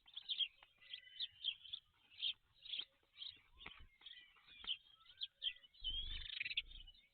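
Birds chirping and warbling in quick, short notes, with a low rumble about six seconds in.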